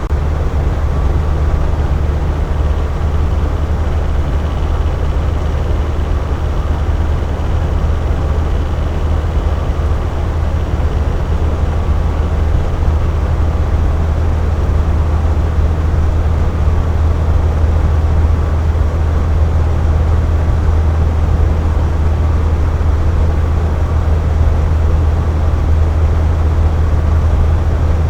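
Air conditioner running steadily: a deep, even hum with a constant rush of blown air over it.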